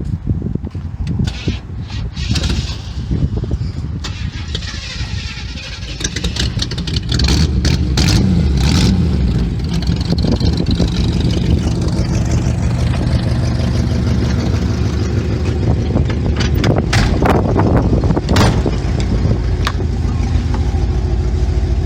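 1962 Chevy Impala's 283 small-block V8 being cranked by the starter for about six seconds, still warm from a drive, then catching and running steadily. It runs through old Cherry Bomb mufflers.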